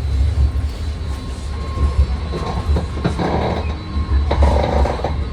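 BART train car heard from inside while running: a steady low rumble of wheels on track under a thin steady whine. Rattling and a few sharp clicks come in from about halfway through.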